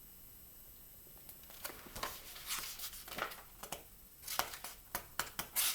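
Book pages being handled and turned: quiet at first, then from about a second and a half in a run of short paper rustles, crinkles and light taps that grow busier toward the end.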